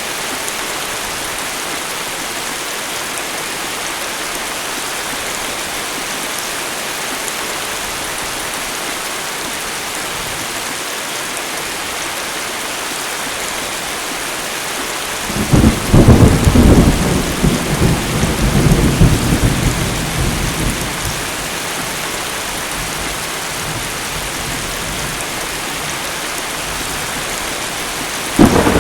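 Heavy tropical rain falling steadily, with a loud thunderclap breaking in suddenly about halfway through and rumbling for about five seconds before dying away; another thunderclap starts just at the end.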